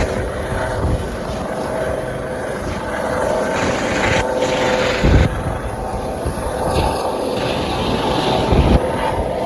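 Rescue helicopter running close by, a steady rotor and engine drone. Gusts of wind hit the microphone about five seconds in and again near the end.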